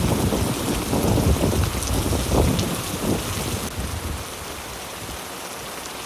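Heavy rain falling steadily, with an irregular low rumble underneath that dies down about four seconds in.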